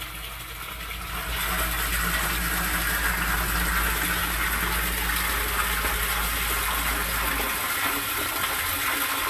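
Half-horse Liberty sump pump running in a 100-gallon outdoor basin, with water rushing loudly through the system; the rush swells about a second in. The pump's low hum cuts off about three quarters of the way through while the water keeps rushing.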